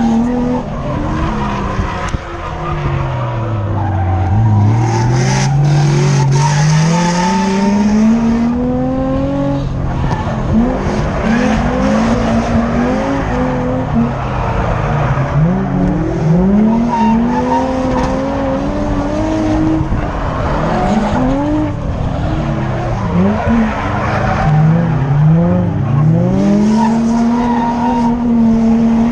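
Nissan 350Z's V6 engine revving hard through a drift run, its pitch sweeping up and down over and over with quick dips and climbs. Tyres squeal continuously, loudest a few seconds in.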